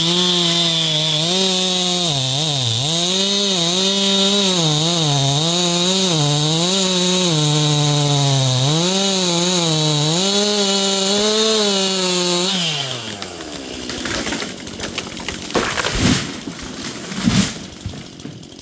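Stihl MS 261 C two-stroke chainsaw running at high revs, its pitch dipping and recovering again and again as it is worked under load. About two-thirds of the way through the revs fall away, leaving quieter scattered cracks and knocks.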